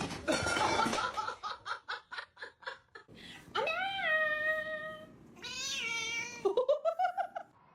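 A cat meowing: a run of short rapid sounds, then a long drawn-out meow, followed by two more calls, the last one wavering and rising.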